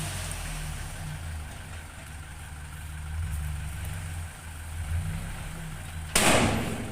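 Heavy vehicle's engine running steadily at a low rumble, with a sudden loud burst of noise about six seconds in.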